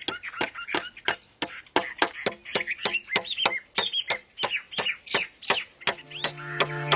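A tool striking bamboo in quick sharp knocks, about three a second, with birds chirping; music begins near the end.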